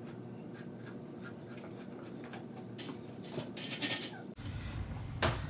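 Faint scraping and light taps of condensed cream of mushroom soup being emptied from a metal can into a crock pot, with one sharper knock near the end.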